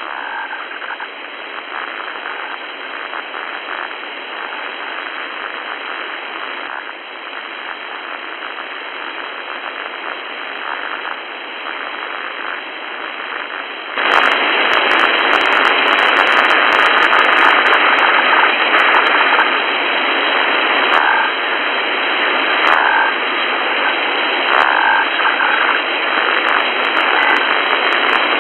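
Shortwave radio receiver tuned to 3751 kHz, giving steady static hiss with short warbling signals recurring in it. About halfway through the hiss jumps suddenly louder.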